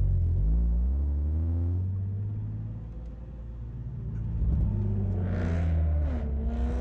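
Stock Nissan 370Z's 3.7-litre V6 heard from inside the cabin, pulling away at low speed: the engine note rises, eases off, then climbs again, dropping briefly and picking up a little after six seconds in as it changes gear.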